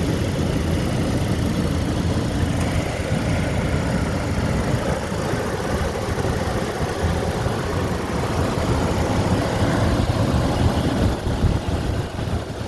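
2008 GMC Canyon pickup engine idling steadily with the hood open, heard from the engine bay.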